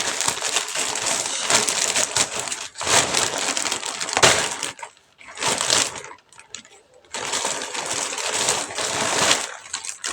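A parcel being unwrapped by hand: packaging crinkling and rustling, in rough spells with two short pauses partway through.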